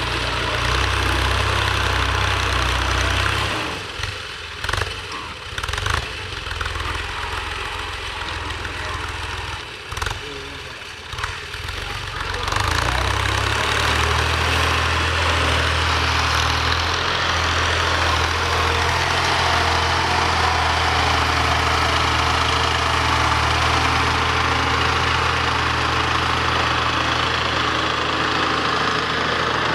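An engine running steadily, dropping away for several seconds after about four seconds with a few knocks, then running again from about twelve seconds on.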